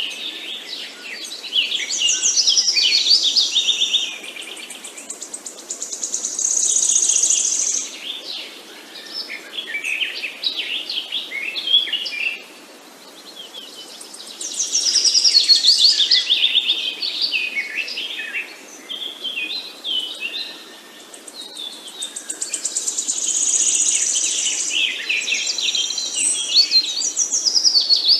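Several songbirds singing together in rapid, high chirps and trills. The singing comes in loud waves with short lulls between them, over a faint steady outdoor background.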